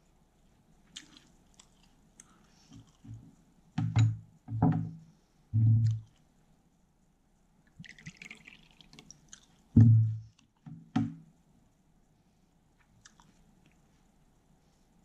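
Close-miked mouth sounds of a person chewing a lettuce wrap of thin-sliced pork belly: faint crisp crunches and a handful of short, loud low mouth sounds, strongest about four to six seconds in and again around ten seconds in.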